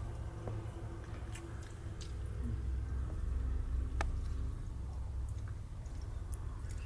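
Steady low rumble with scattered light clicks and knocks, the sharpest about four seconds in.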